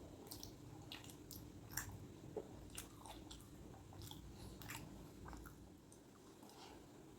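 A person chewing and biting food, with irregular sharp mouth clicks and smacks every fraction of a second.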